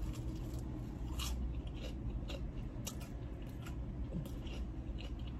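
Biting into and chewing a Korean corn dog coated in crunchy fried potato pieces, close to the microphone, with irregular sharp crunches. A low steady hum runs underneath.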